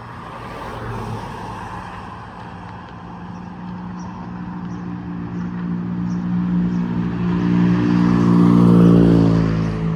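A motor vehicle's engine approaching and passing close by, growing louder to a peak near the end, then dropping in pitch and fading as it goes past.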